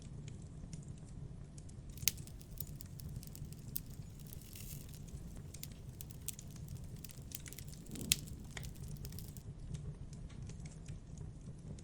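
Campfire crackling: scattered sharp pops and snaps over a steady low rumble, thickening into a busier run of crackles from about two seconds in, with two louder pops, one about two seconds in and one about eight seconds in.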